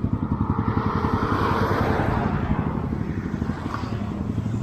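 A small engine running steadily with a rapid low putter. A rushing noise swells and fades over the first few seconds.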